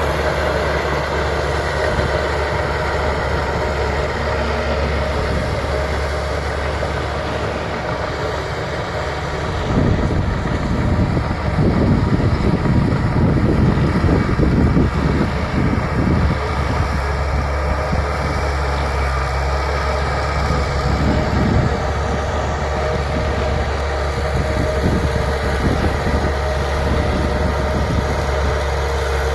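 Bulldozer's diesel engine running steadily, with a louder, rougher low rumble from about ten seconds in that lasts several seconds and comes back briefly a little later.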